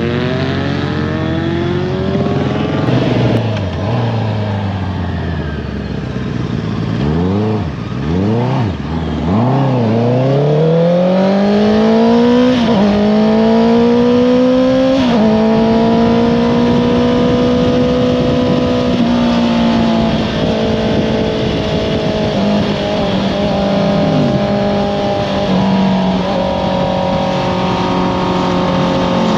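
Honda CBR650R inline-four through an Akrapovič exhaust, ridden hard: the revs drop, then come back as a quick run of short throttle blips on downshifts. It then pulls up through the gears, with a small step at each shift, and settles to a steady cruise.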